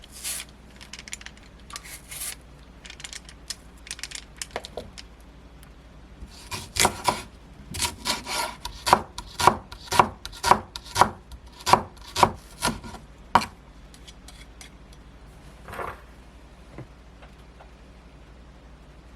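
Kitchen knife chopping on a wooden cutting board, about two even strokes a second for some seven seconds in the middle. Before it come light scattered clicks and rustles of handling.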